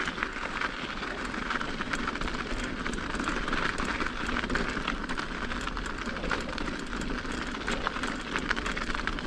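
Mountain bike climbing an icy, snow-covered trail: steady crunching and crackling of the tyres on ice and snow, dense with small clicks and rattles.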